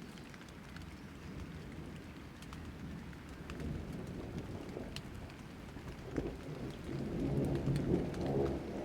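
Steady rain with scattered drop ticks, under a low rumble of thunder that swells about seven seconds in.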